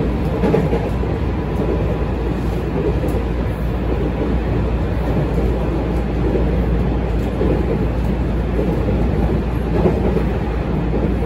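Cabin running noise of a JR West 207 series electric commuter train at speed: a steady rumble of wheels on rail, with a louder rail knock about half a second in and another near the end.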